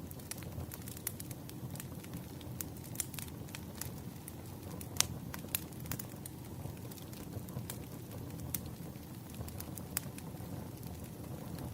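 Wood fire burning: irregular sharp crackles and pops over a low steady rumble, the loudest pop about five seconds in.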